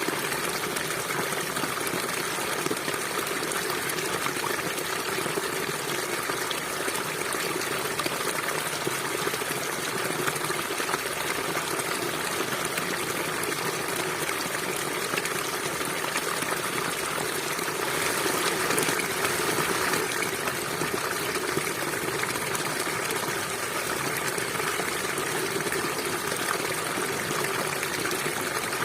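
Stream water flowing and trickling steadily over rocks, briefly a little louder about two-thirds of the way in.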